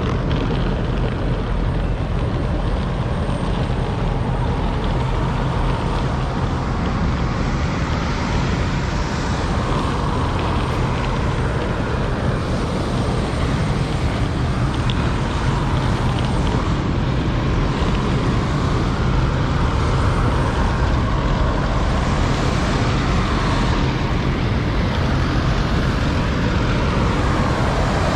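Steady drone of propeller aircraft engines running, with a strong low hum under a wide rushing noise, a little louder in the second half.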